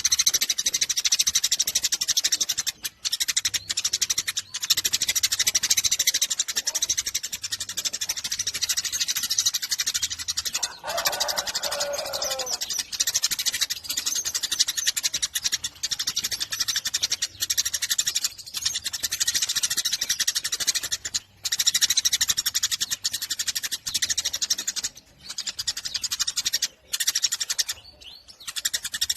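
Eurasian tree sparrow chattering in a dense, unbroken run of rapid high chirps, with only brief pauses. A lower, downward-sliding call of about two seconds sounds around eleven seconds in.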